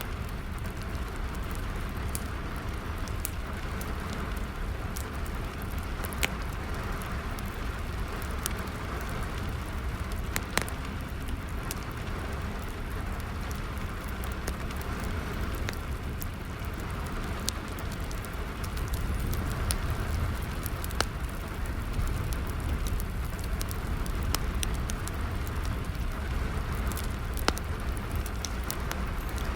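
Steady rain falling, mixed with a burning fire crackling, with sharp pops every few seconds.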